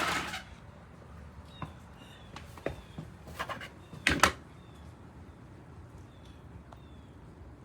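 A few knocks and clicks, the loudest about four seconds in, with faint short high chirps repeating throughout.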